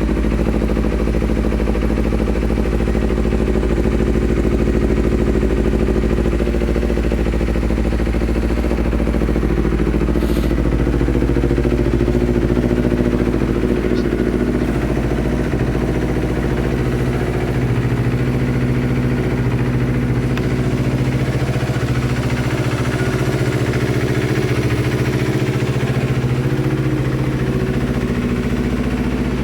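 Kawasaki Ninja 250R's parallel-twin engine idling steadily through an aftermarket Danmoto exhaust.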